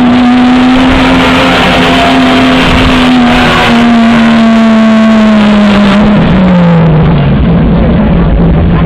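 Mud truck engine running loud at high, steady revs, its pitch falling about six seconds in as the revs come down.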